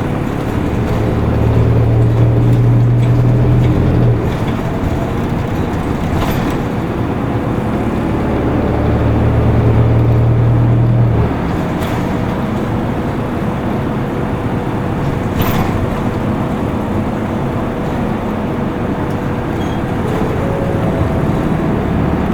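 Isuzu Erga Mio city bus heard from inside, its four-cylinder turbodiesel pulling hard twice with a strong low drone, easing back between and after to a steadier run over road noise. A few short sharp clicks come through, about six, twelve and fifteen seconds in.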